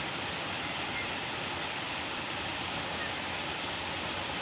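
Steady rushing noise of flowing water, even throughout.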